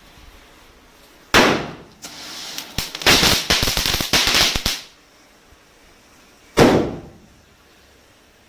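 Diwali firecrackers going off: a sharp bang, then about three seconds of hissing with rapid crackling pops, then another sharp bang.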